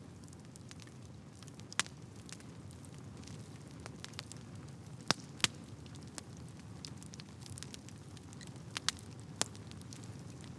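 Wood fire burning in a fireplace: a steady low rush of flames with scattered crackles and a few sharp pops, the loudest around 5 seconds in and again near 9 seconds.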